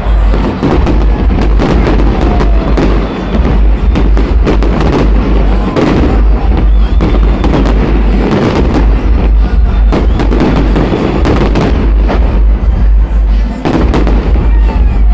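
Fireworks display: a dense, continuous run of loud bangs from shells bursting, over a heavy low rumble, recorded on a phone's microphone.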